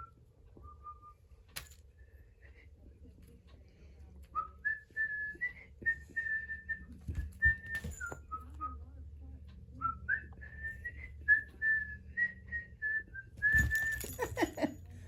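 A person whistling a slow run of short, clear notes at a similar pitch, with small steps up and down like a tune. A brief clatter of handling sounds comes near the end.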